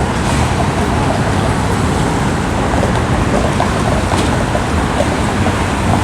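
Steady rumble of a CTrain light-rail train running.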